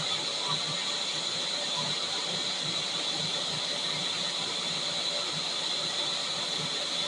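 Vacuum cleaner running steadily: a constant rush of air with a high whine over it.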